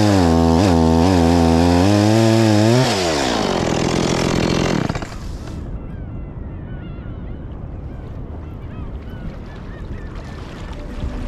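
Gasoline chainsaw running at high revs, its pitch wavering as it cuts, then winding down about three seconds in and falling away by five seconds. A quieter background with faint high chirps follows.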